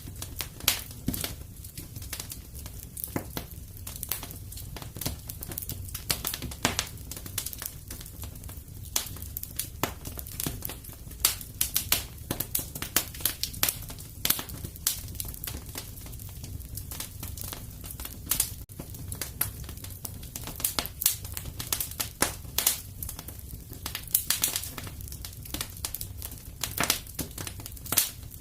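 Wood fire crackling and popping in a fireplace: irregular sharp pops, several a second, over a steady low rumble of the flames.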